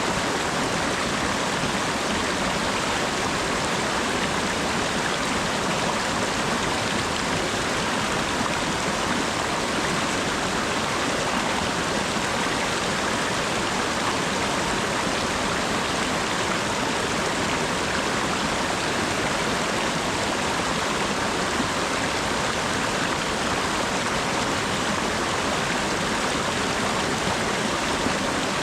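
Steady autumn rain falling, an even hiss that holds without let-up.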